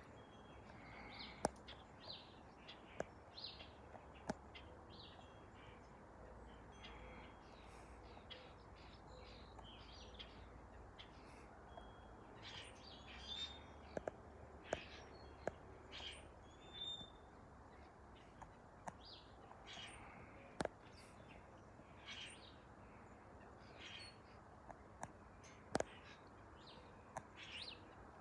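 Small birds chirping: scattered short, high calls throughout, with a few sharp clicks among them, over a faint low background.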